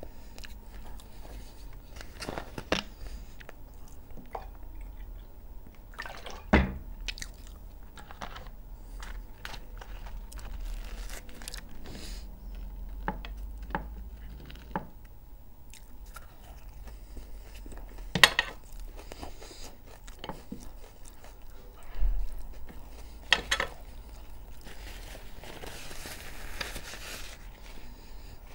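Close-miked chewing and biting of a meal of Albanian-style fried liver and bread, with crunches and wet mouth sounds. A few sharper clicks stand out above the rest.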